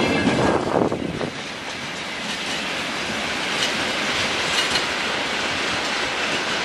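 Freight wagons rolling on the rails: the last wagons clatter past in the first second, then the sound drops to a steady rolling rush with faint clicks as the train moves away.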